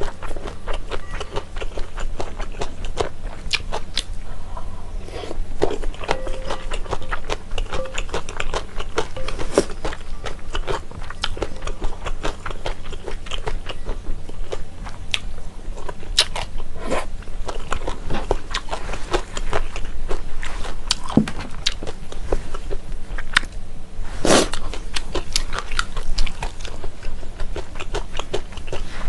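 Close-miked chewing and mouth sounds of someone eating glass noodles in a spicy mala buldak sauce, with many short clicks as a spoon scrapes and taps the bowl, over a steady low hum.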